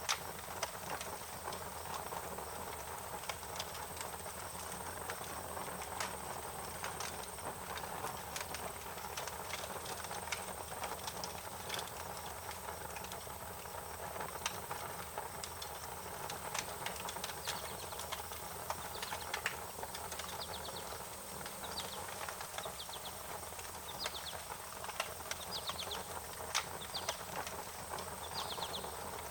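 Wood fire crackling: irregular sharp pops and snaps over a steady hiss. Short high chirps join in during the last third.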